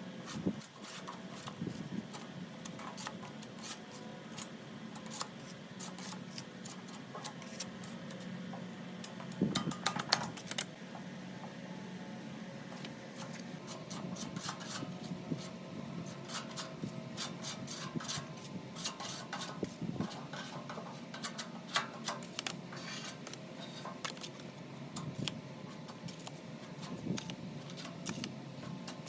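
Hand work on metal parts: repeated scraping and rubbing with many small metallic clicks and clinks over a steady low hum, and a louder cluster of clinks about ten seconds in.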